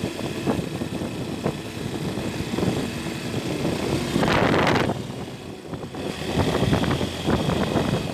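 A motorcycle running along the road, engine and road noise together, with a louder rushing surge about four seconds in.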